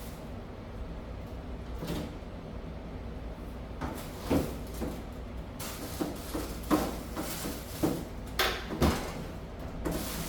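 A series of short knocks and bumps over a low steady hum, like doors or cupboards being handled, clustered in the second half.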